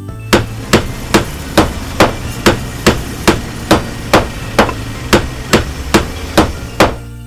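Hammer striking in a steady, even rhythm, about sixteen blows at roughly two and a half a second, over steady low background tones.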